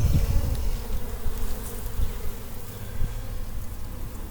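Honeybees buzzing around an opened hive, a steady hum that fades somewhat toward the end, over a low rumble.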